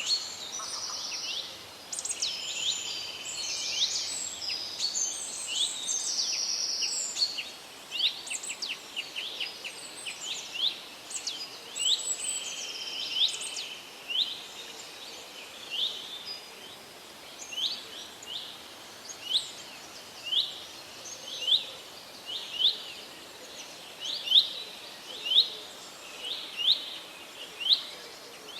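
Wild birds singing: for the first several seconds a few overlapping songs and trills, then one bird repeating a short, sharp chirp about once a second, getting louder towards the end, over a faint steady background hiss.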